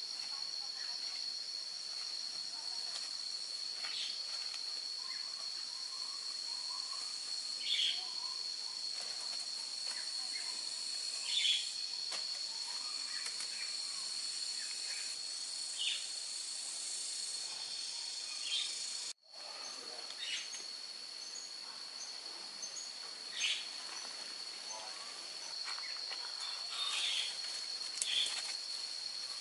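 A steady, high insect drone, with short bird chirps every few seconds over it. The sound drops out for a moment a little past the middle.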